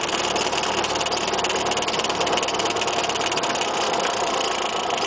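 Cessna 172R's four-cylinder Lycoming engine running steadily, its deepest rumble dropping away about four seconds in.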